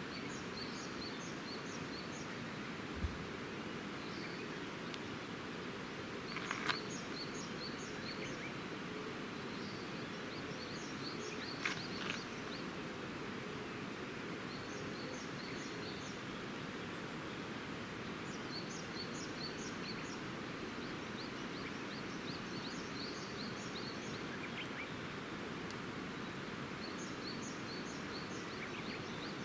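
A songbird repeating short series of high chirps again and again over a steady background hiss, with a couple of sharp pops from the campfire around six and twelve seconds in and a dull low thump about three seconds in.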